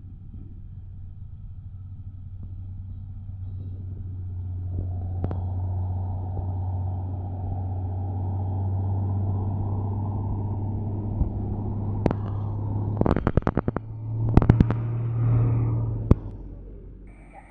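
A heavy diesel truck engine labours steadily under load on a steep climb, growing louder as it comes closer. Near the end come a few quick clusters of sharp knocks or rattles, then the engine fades away.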